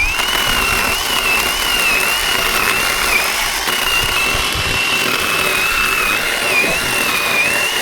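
Zhipu 48V cordeless electric chainsaw running with a high, steady motor whine that dips slightly and recovers, along with the rasp of the chain, as it cuts wood.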